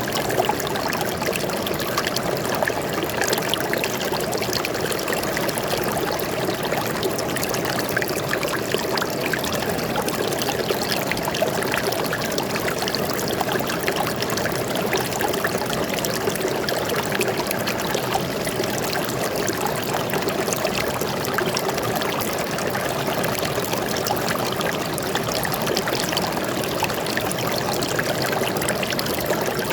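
Forest stream flowing steadily, water splashing and trickling over stones.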